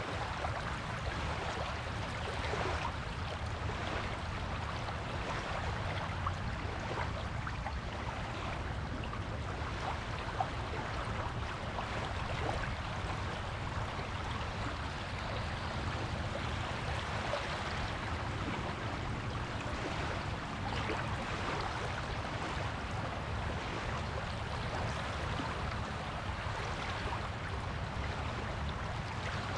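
Surf washing steadily onto a beach at an even level, with no single loud wave break standing out.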